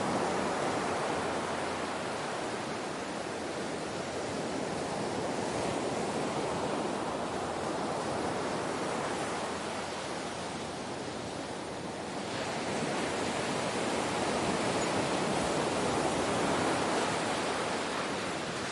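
Ocean waves washing on a shore: a continuous rush of surf that eases off and then swells again about twelve seconds in.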